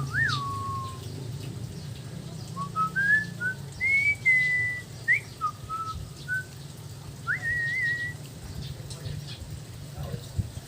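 Pet parrot whistling a string of clear notes that slide up and down, in two phrases with a short pause between them.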